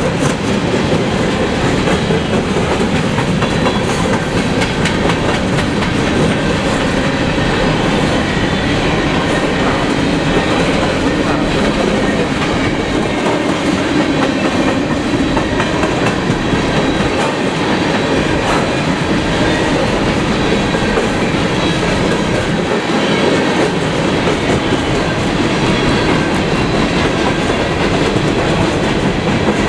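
Freight train cars rolling steadily past, wheels clacking over the rail joints.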